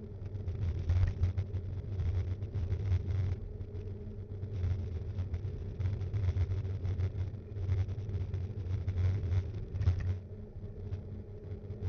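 Ride noise of a Btwin Rockrider 5.1 mountain bike picked up by an action camera mounted on it: a steady low rumble from the tyres and wind, broken by frequent short rattles and knocks as the bike goes over the road surface.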